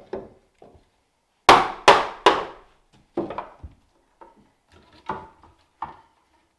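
A series of sharp knocks of a mallet striking wood, irregularly spaced, the three loudest coming close together about a second and a half in, followed by lighter taps.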